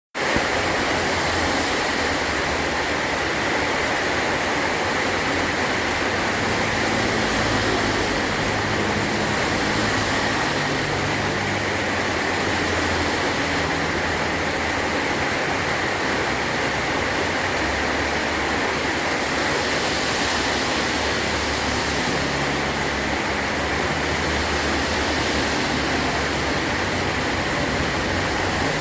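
Heavy rain falling steadily on a metal tin roof, an even, unbroken hiss and patter.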